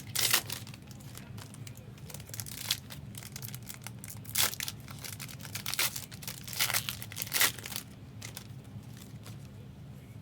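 Trading card pack wrappers being torn open and crinkled, in irregular bursts that thin out near the end.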